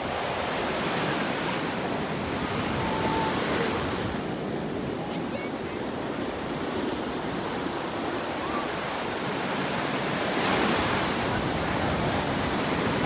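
Sea waves washing onto a beach, with two swells as waves break, the louder one near the end.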